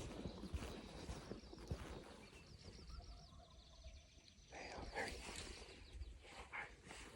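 Footsteps on dry ground in the first second or so, then a small songbird singing a high, rapid repeated trill for about two seconds. A few short calls follow later.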